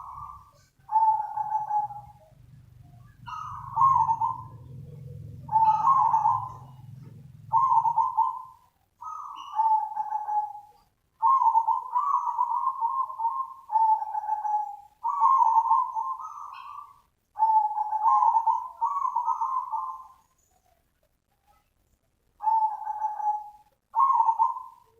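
Zebra dove (perkutut) singing its rolling cooing song: a long run of short coo phrases, each about a second long, repeated with brief gaps and one longer pause about twenty seconds in. A faint low hum lies under the first eight seconds.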